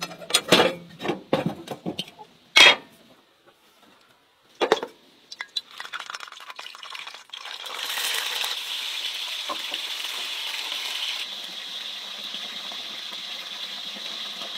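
A few sharp knocks and clinks, the loudest about two and a half seconds in, then from about seven and a half seconds red bell pepper pieces sizzling steadily in a hot cast-iron frying pan.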